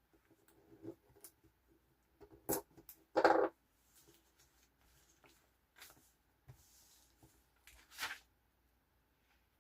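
Washi tape and paper being handled on a journal page: scattered light rustles and taps, with a short louder rasp a little over three seconds in and another brief rustle near the end.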